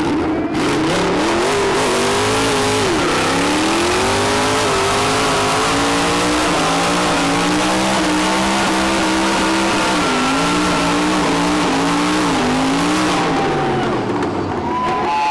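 A car doing a burnout: the engine is held at high revs for over ten seconds, its pitch bobbing up and down, over the steady hiss of spinning tyres. The revs fall away near the end.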